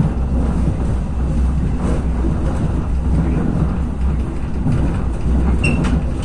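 Running noise of a Regionova diesel railcar under way, heard from inside: a steady low rumble with wheel-on-rail noise, and a couple of sharp clicks with a brief squeak near the end.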